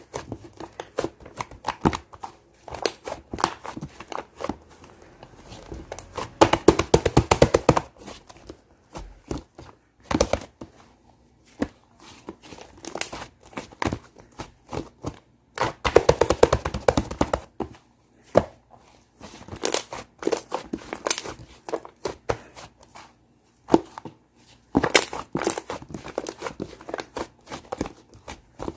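Hands squeezing and kneading a shaving-foam slime, making dense crackling, popping clicks that come in bursts, the loudest a few seconds in, around the middle and near the end.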